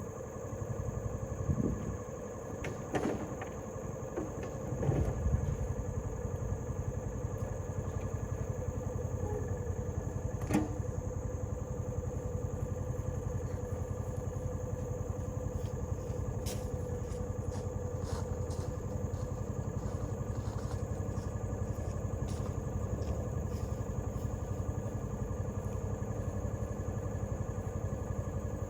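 A vehicle engine running steadily at low speed, with a few knocks and clatters in the first few seconds and an occasional sharp click.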